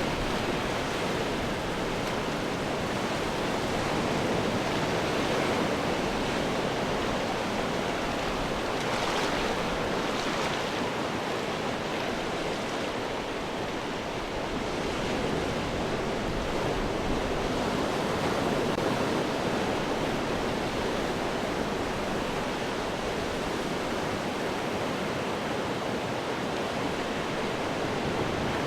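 Sea surf breaking on rocks: a continuous wash of water with slow swells as waves come in, a few brighter splashes standing out about a third of the way through and again past the middle.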